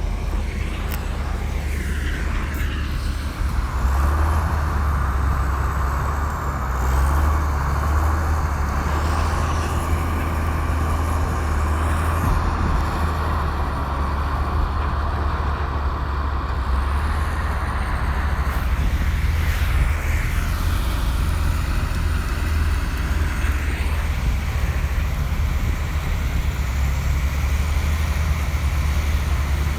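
Komatsu crawler bulldozer's diesel engine running steadily under load. A higher hissing whine joins in from about four seconds in and fades out after about fourteen seconds.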